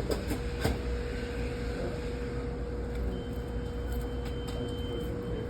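Steady low background rumble with a constant mid-pitched hum running through it, a faint high whine in the second half, and a few faint clicks.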